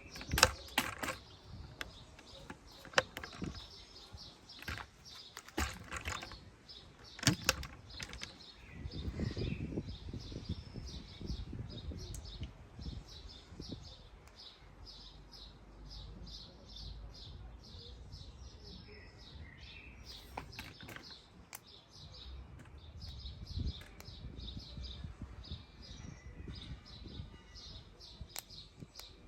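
A small bird chirping in quick, repeated short notes throughout. A few sharp clicks and knocks come in the first eight seconds, and a low rumble follows around ten seconds in.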